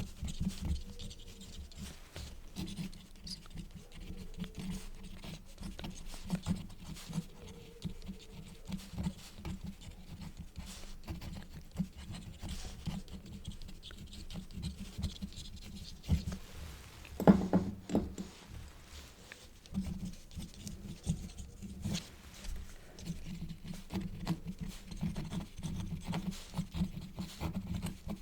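Quill pen nib scratching on paper in many short, irregular strokes, with one louder knock a little past the middle.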